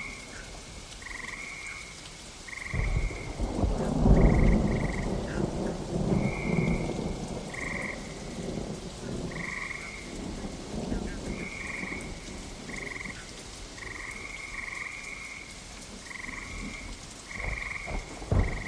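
Steady rain with frogs calling over and over in short, repeated calls. A thunder rumble rolls in about three seconds in, is loudest a second later, and fades away over the next several seconds.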